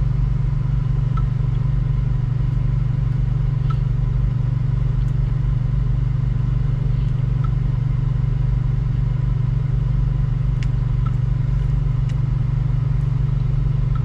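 Steady low drone of a car idling, heard from inside the cabin, unchanging throughout, with a few faint small clicks.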